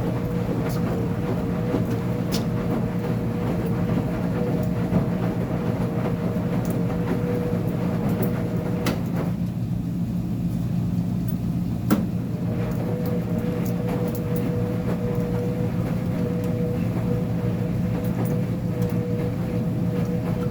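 Uni-Mac UniMat 35 commercial front-load washer running through its cycle, a steady hum under a motor whine. The whine cuts out about nine seconds in and comes back after a sharp click a few seconds later, with light ticks throughout.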